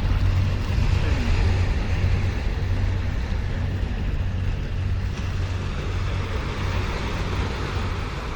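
Steady low rumbling background noise, heaviest in the bass, with no distinct events.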